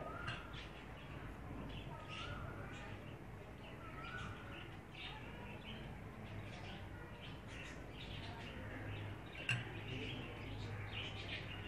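Faint birds chirping, many short chirps and a few short warbled notes, over a low steady hum. A brief knock about nine and a half seconds in.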